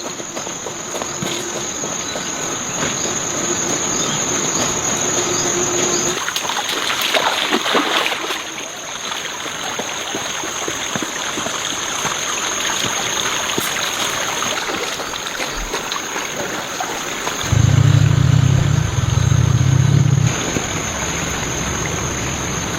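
Outdoor ambience with a steady high-pitched insect drone and scattered rustles and clicks. About three-quarters of the way through, a loud low motor hum starts suddenly and runs for about three seconds.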